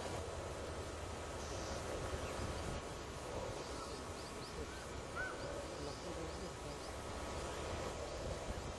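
Outdoor wetland ambience: a steady background hiss and rumble, with a few faint, short bird chirps and calls about halfway through.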